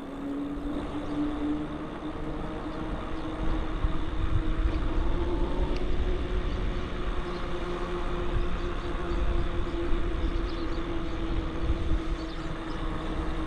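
Electric bike riding along: a steady hum that rises slightly in pitch about five seconds in, with wind rumbling on the microphone that grows stronger after about three seconds.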